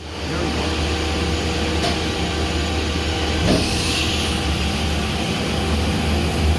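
Mazak Integrex E-800V machining center running under power: a steady low hum with several steady tones over a wash of machine noise, and a brief hiss about three and a half seconds in.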